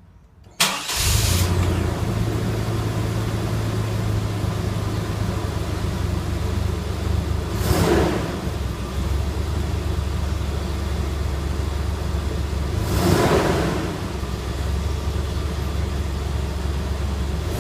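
Chevrolet Blazer's 4.3-litre V6 fires up about half a second in and settles into a deep, steady idle rumble. It is blipped briefly three times: about a third of the way through, about two thirds through, and at the very end.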